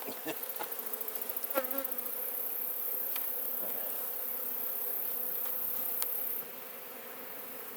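Honeybees buzzing around an opened hive, a steady hum from many bees in flight, with a few light clicks from handling.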